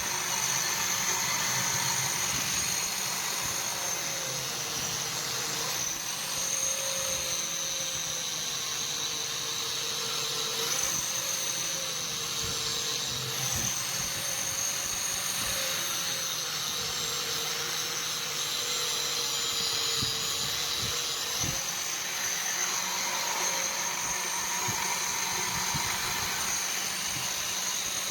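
Electric power tool running steadily on a steel knife blank, its motor pitch dipping briefly every few seconds as it is pressed into the work.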